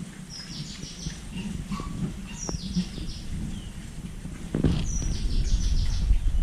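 A bird chirping in three short runs of high notes that step down in pitch, over a low rumble that grows louder about two-thirds of the way in.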